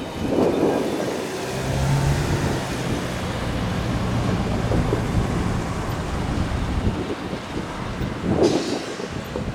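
Rumbling vehicle noise with a low engine hum from about one and a half to five seconds in, and wind buffeting the microphone.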